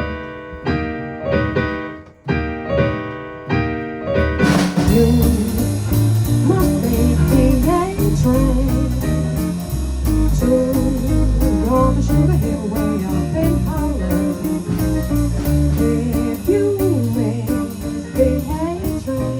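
Small band playing blues-jazz: a few chords struck alone, then about four and a half seconds in the full band comes in with drums, bass and a lead guitar playing a bending melody.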